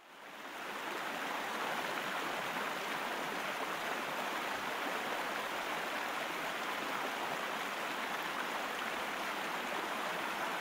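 Steady rushing noise of moving water, fading in over the first second and then holding even.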